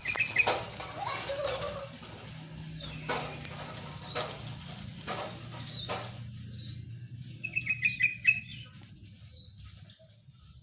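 Hill myna calling: scattered sharp clicks and short whistles, then a quick run of chirps about three quarters of the way in.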